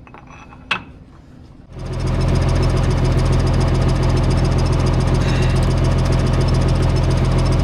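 A single click, then about two seconds in a John Deere tractor engine comes up and runs steadily.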